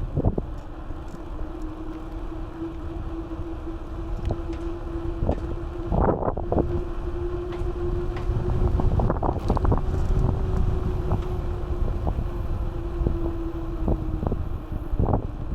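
Wind buffeting the microphone of a bike-mounted action camera during a mountain bike ride, with a steady hum through most of it and scattered short rattles and knocks from the bike going over bumps, the loudest about six seconds in.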